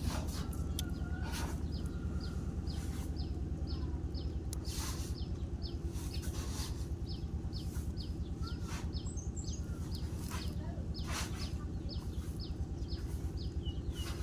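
A bird chirping over and over, short high calls about two to three a second, over a steady low rumble.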